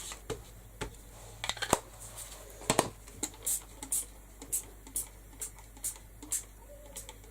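Short crisp clicks and taps from a Distress Oxide ink pad and craft supplies being handled and worked on a craft mat. From about halfway it settles into a run of evenly spaced sharp, hissy ticks, about two a second.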